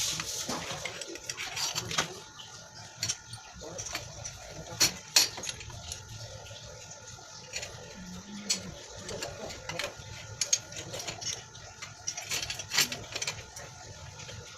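Irregular clicks, taps and light clatter, as of things being handled, over faint background noise; no engine is running.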